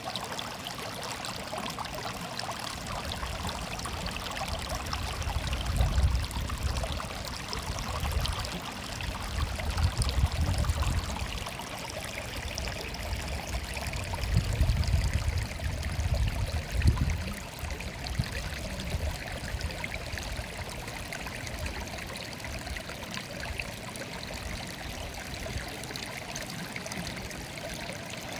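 Water murmuring and babbling steadily, as a small stream running. Three low rumbling swells rise and fall under it, about 6, 10 and 15 seconds in.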